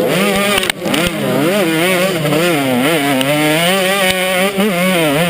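KTM 150 XC two-stroke single-cylinder dirt bike engine being ridden hard, its pitch rising and falling over and over as the throttle is worked, with a brief chop in the sound less than a second in.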